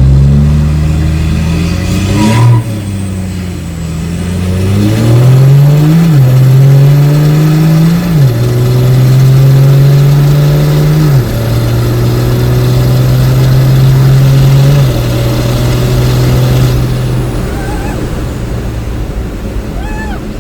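Heavy drag-racing truck's diesel engine pulling hard through its gears: the engine note climbs and drops sharply at each upshift, about five times. After the last shift it holds steady, then fades away near the end.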